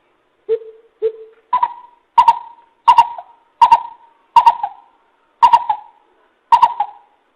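A coucal hooting in a series of about nine short, separate notes, roughly one every 0.7 s. The first two notes are lower in pitch and the rest are higher. This is the bìm bịp call played as a lure for trapping.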